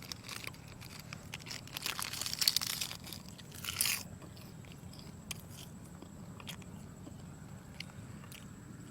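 Close-up eating sounds of a person chewing soy-sauce-marinated seafood: dense crunching and crackling for the first four seconds, loudest in the middle, then only sparse soft chewing clicks.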